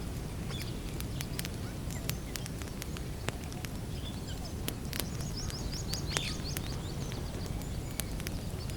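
Wood campfire crackling, with frequent sharp pops and snaps over a steady low rumble. In the middle a bird gives a quick run of high chirps.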